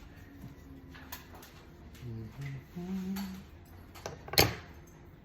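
A person humming a few short low notes, then a single sharp knock, with a few faint clicks.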